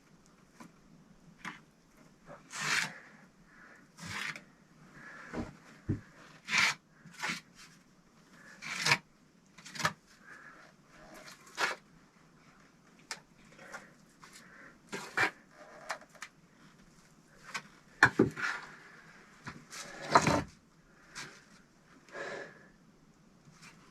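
Irregular scraping strokes and knocks of bricklaying work on a brick stove, bricks and mortar being scraped, set and tapped into place.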